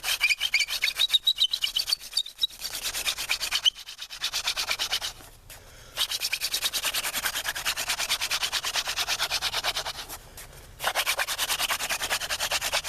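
Hand-drill friction fire: a horseweed spindle spun between the palms, grinding in the socket of a willow hearth board with a little damp dirt added for bite, while burning in the socket. Fast rubbing in runs of strokes with short breaks, and a faint squeak in the first seconds.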